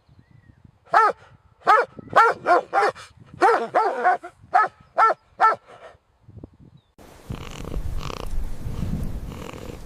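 A dog barking in quick runs of short, pitched barks, about ten in all. About seven seconds in, a steady rumbling noise like rain takes over.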